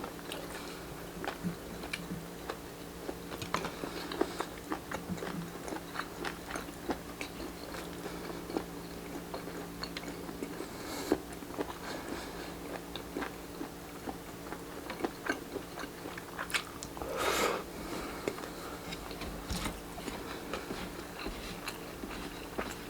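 Close-miked chewing and biting of grilled Filipino street-food barbecue, with many irregular wet mouth smacks and clicks over a steady low hum. There is a longer noisy sound about seventeen seconds in.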